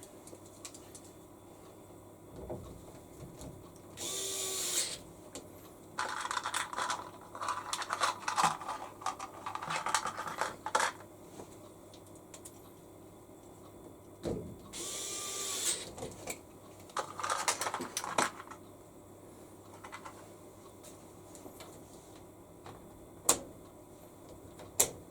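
Hands at work on a top-loading washing machine's plastic parts: two short scraping hisses, with clusters of clicks and rattles between and after them and a couple of sharp clicks near the end.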